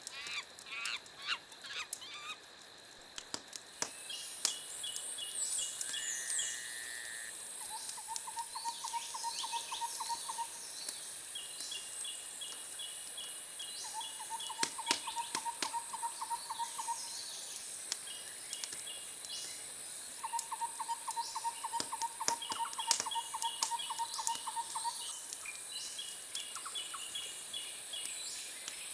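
Wood fire crackling with scattered sharp pops, over a nature background of birds. The birds give repeated rapid trills: lower ones lasting a few seconds, alternating with shorter, higher ones. A steady high hiss runs underneath.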